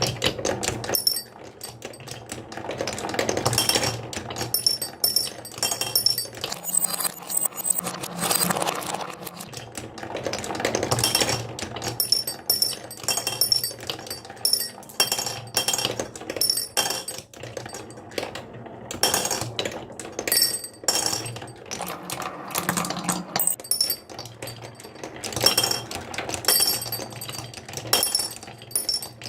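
Marbles rolling and clattering down a toy marble run: a dense, continuous run of clicks and clacks, with many bright clinks as marbles strike the track and each other.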